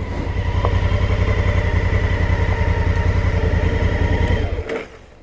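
Motorcycle engine idling with an even low pulse, then switched off about four and a half seconds in, on arrival at a stop.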